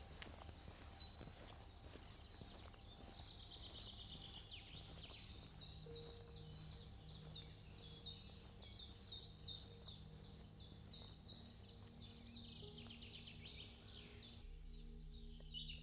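A songbird singing a long run of short, high, repeated notes, about two a second, with other birds chirping faintly. Near the end the background changes abruptly and other chirps take over.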